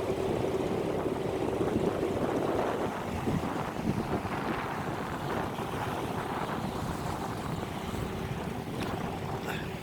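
A steady motor hum that fades about three seconds in and returns faintly near the end, under wind noise on the microphone and water sounds.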